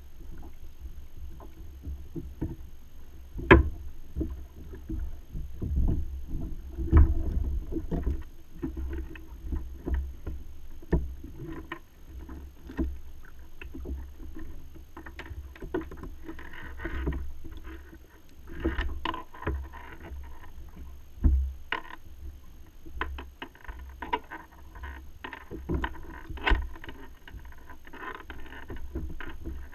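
Kayak on the water: water sloshing and splashing against the hull with scattered knocks, the loudest a sharp knock a few seconds in, over a steady low rumble.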